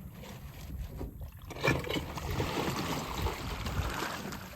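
Small boat on the water: a steady low rumble with wind on the microphone, a little louder from about two seconds in.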